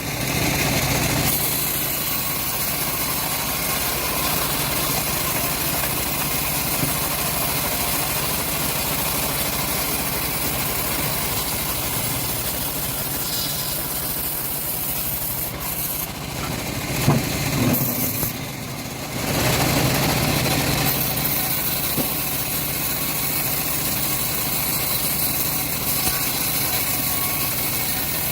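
Homemade engine-driven bandsaw mill running steadily, its blade cutting through a teak log. There is a brief dip in the sound about two-thirds of the way through, then the steady sawing resumes.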